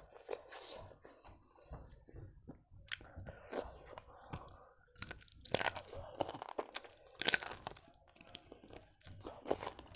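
A person chewing a mouthful of food close to the microphone, with wet mouth sounds and short crunchy bites, the loudest a little past halfway.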